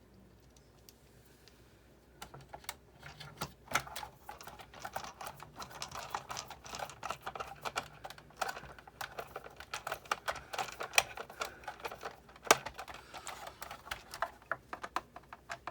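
Dense, irregular clicking and tapping of plastic and metal parts being handled and fitted back into a Sizzix Big Shot die-cutting machine, starting about two seconds in.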